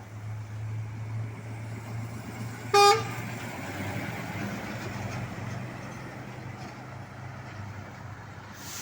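A marine-style horn fitted to a Scania truck gives one short, loud blast about three seconds in, over the steady low running of the truck's engine.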